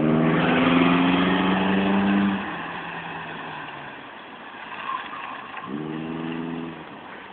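Toyota Camry's engine revved and held at high revs for about two seconds, rising a little in pitch, then dropping back to a quieter, lower idle; a second, shorter rev comes near the end.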